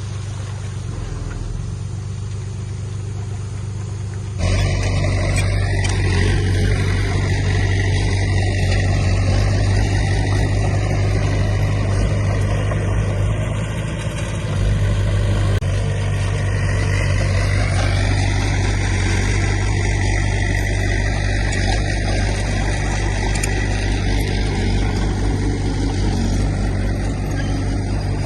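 Diesel engine of heavy earthmoving equipment running steadily with a strong low drone. It gets suddenly louder about four seconds in. A thin high whine shifts in pitch partway through.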